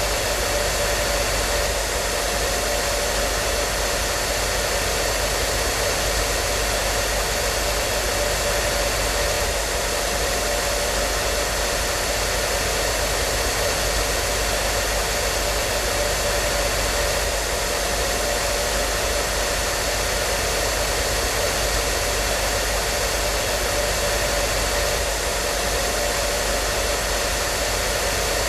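Hair dryer running steadily: an even whooshing rush of air with a faint steady motor whine, unchanging throughout.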